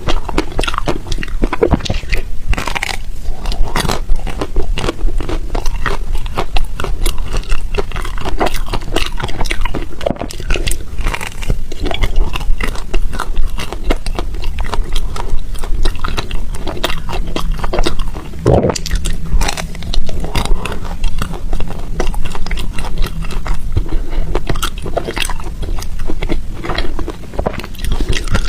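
Close-up biting and crunching of soft, crunchy ice, with a rapid, continuous run of crunches as it is chewed.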